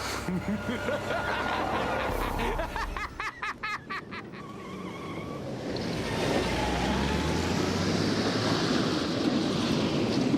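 Action sound effects from a fight scene: warbling electronic tones, then a quick run of rapid zaps, then a loud rushing blast from about six seconds in that cuts off suddenly at the end.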